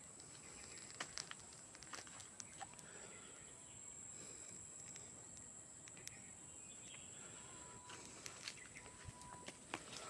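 Near silence: faint outdoor background with a thin steady high whine and a few scattered faint ticks.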